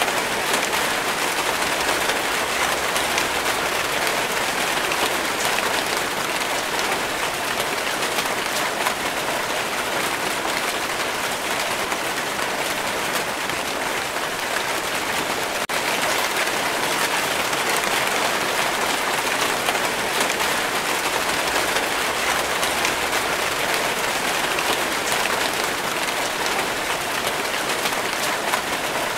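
Steady rain falling, a dense, even patter of many drops with no breaks or changes in strength.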